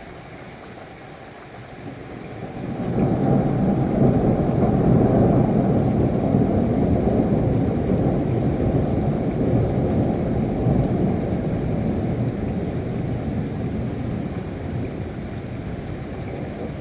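Steady rain with a long roll of thunder: about two seconds in, a deep rumble swells up, stays loud for several seconds, then slowly dies away while the rain goes on.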